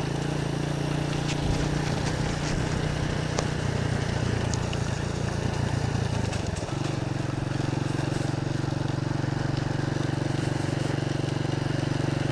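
Motorcycle engine running steadily while riding, over an even rushing noise; the engine note changes suddenly about two-thirds of the way through, then holds steady again.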